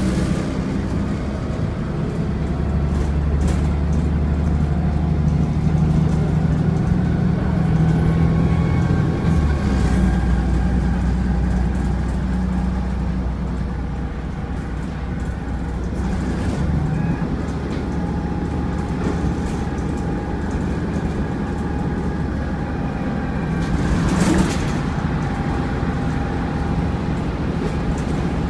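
Volvo B7TL double-decker bus's turbocharged six-cylinder diesel engine running as the bus pulls away, with a thin turbo whistle over the engine drone, which shifts pitch twice. A brief burst of hissing noise near the end.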